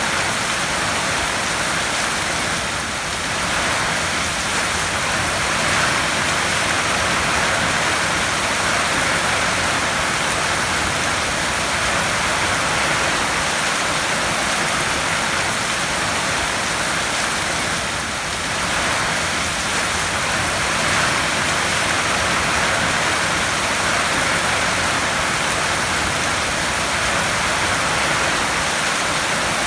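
Heavy rain drumming on a tin roof: a steady, dense hiss with no single drops standing out.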